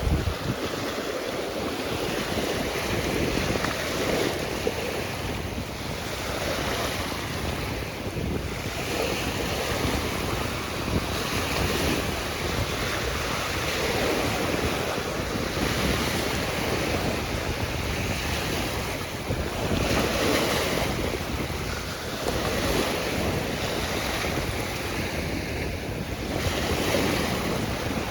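Sea waves washing in and out in swells every few seconds, with wind rushing on the microphone.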